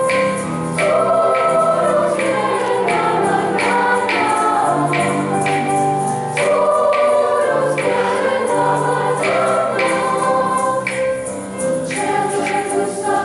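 School choir singing, the voices holding and moving between sustained notes over a steady beat of sharp attacks, about two a second.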